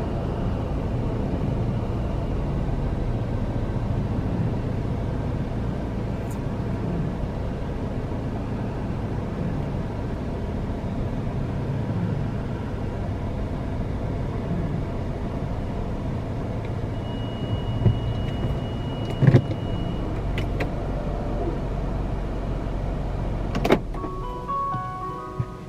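Laserwash touchless automatic car wash at work: a steady low rumble of water spray and the moving gantry. A brief high whine comes about two-thirds through, and a few sharp knocks follow.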